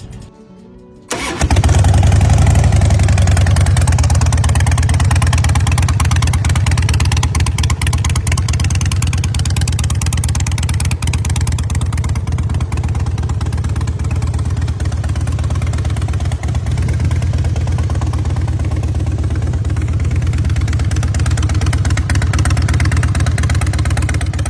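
2005 Harley-Davidson Heritage Softail's V-twin engine starts about a second in, then runs steadily with a fast, even low pulse.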